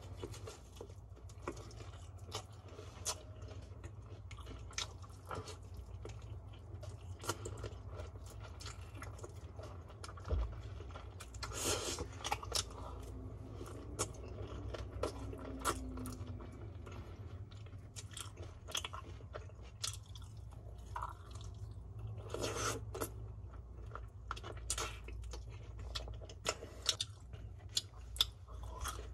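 Close-up chewing and crunching of crispy BHC Bburinkle fried chicken, with irregular crackles throughout and denser, louder crunches about twelve seconds in and again about twenty-three seconds in.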